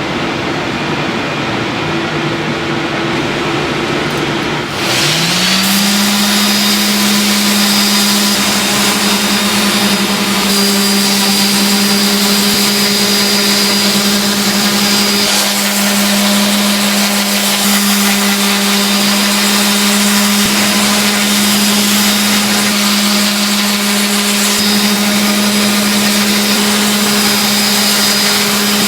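Filter-production machinery running loudly, with a motor spinning up about five seconds in and then holding a steady hum and high whine.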